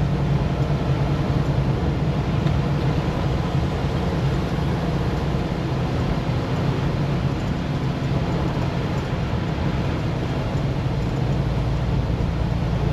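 Semi-truck driving, heard from inside the cab: a steady, even low hum of engine and road noise with no sudden changes.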